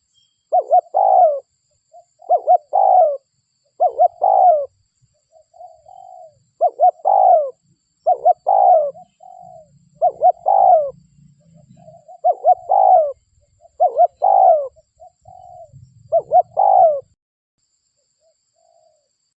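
Spotted dove cooing: a repeated phrase of a few short rising-and-falling coos, given about nine times at intervals of one and a half to two seconds, with softer single notes between. The calling stops a couple of seconds before the end.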